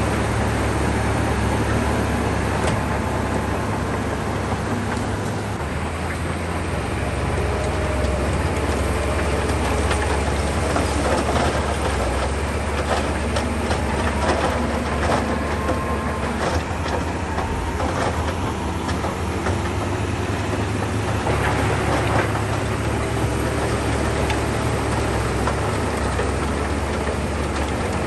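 SHANTUI crawler bulldozer working: its diesel engine runs steadily with a deep hum, with frequent clanks and knocks from the steel tracks and the stone being pushed.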